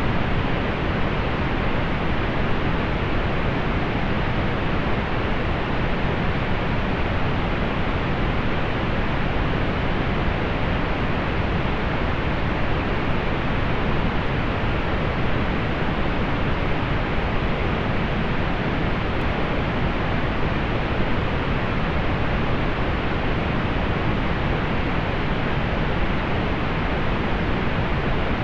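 Steady synthetic pink noise: an even, unchanging hiss that is fuller in the low end, rolled off above the upper midrange.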